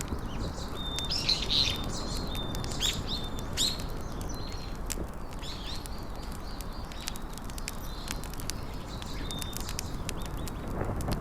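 Small birds chirping and whistling in short high notes and quick sweeps, busiest in the first few seconds. Scattered sharp clicks run underneath them.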